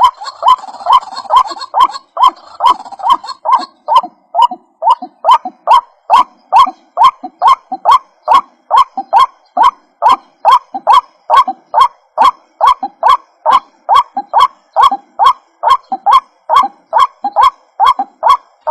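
White-breasted waterhen (ruak-ruak) calling, a short croaking note repeated over and over in a fast, even rhythm, about two to three notes a second.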